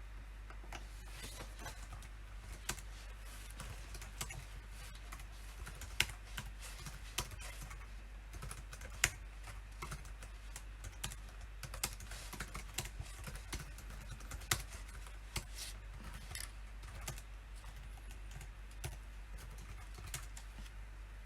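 Typing on a computer keyboard: irregular runs of keystrokes with short pauses, thinning out near the end, over a steady low hum.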